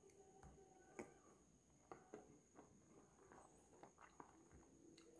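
Faint, crisp chewing of raw green mango: a scatter of soft crunchy clicks, the sharpest about a second in.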